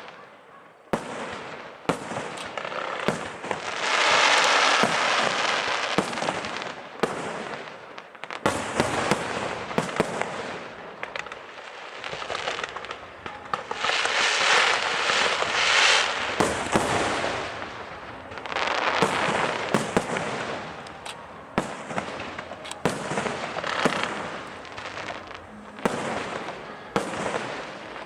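Aerial fireworks show: a continuous run of shell bursts and sharp bangs, with dense crackling swells about four seconds in, around the middle and again a few seconds later.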